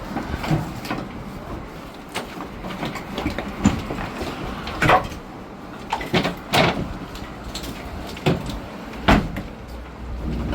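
Irregular hard knocks and clatters, about seven of them at uneven intervals, over a steady background noise.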